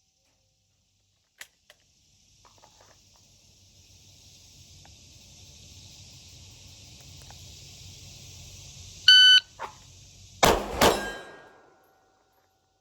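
A shot timer gives one short beep. About a second and a half later a Glock 45 pistol fires two quick shots about 0.4 s apart: a timed draw from the holster, with a first shot and a split. A faint hiss builds before the beep.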